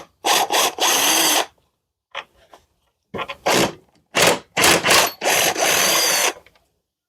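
Power drill/driver run in a string of short bursts, backing out the screws that hold a two-stroke lawnmower engine to its deck. There are two groups of bursts with a pause between them, and the noise stops shortly before the end.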